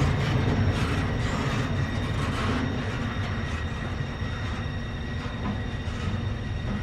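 CSX freight train cars rolling past on the track, a steady low rumble of wheels on rail with scattered faint clicks, slowly fading.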